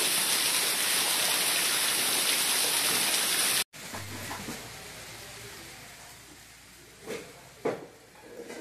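Heavy downpour, a loud steady rush of rain that cuts off abruptly about three and a half seconds in. After it comes a much fainter background hiss with two brief sharp sounds near the end.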